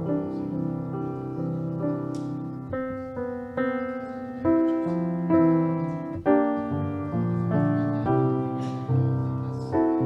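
Piano playing sustained chords, the closing postlude after the benediction.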